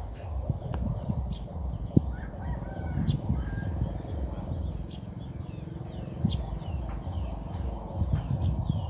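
Rural outdoor ambience: chickens clucking and calling, with small birds chirping now and then over a steady low rumble and a few sharp clicks.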